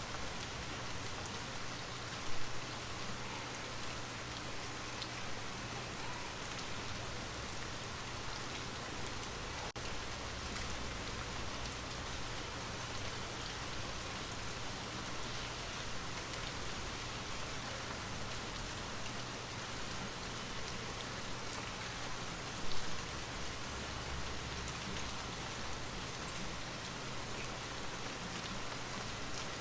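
Steady rain falling on a surface, an even hiss of drops, with two brief louder thumps, one about two seconds in and one about 23 seconds in.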